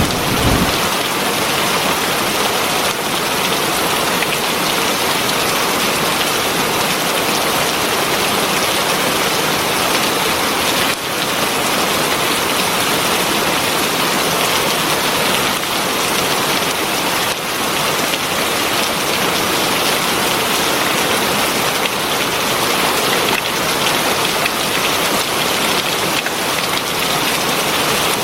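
Heavy rain falling steadily, a dense even hiss of drops on surfaces. A low thunder rumble dies away in the first second.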